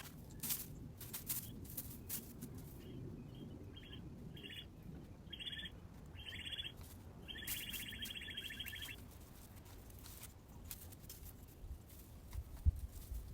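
A bird singing: a series of short, high notes that grow longer, ending in a trill of about a second and a half, with scattered faint clicks and rustles around it.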